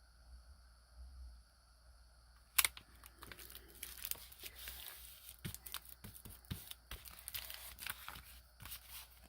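Close-up paper handling: a sharp click about two and a half seconds in, then a run of crackling, crinkling paper noise.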